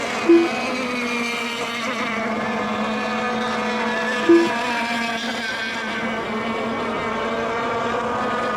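Several RC racing boat engines running at speed together, a steady high buzzing whine with pitches drifting slightly as the boats lap the course. Two short, loud beeps sound, one just after the start and another about four seconds later.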